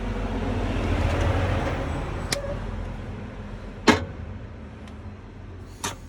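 A vehicle passing by, its rumbling noise swelling and then fading away, with three sharp knocks or clicks. The loudest knock comes about four seconds in.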